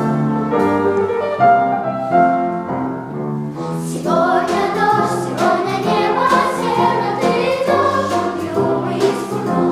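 Vocal ensemble singing with piano accompaniment: the piano plays alone at first, and the voices come in about four seconds in.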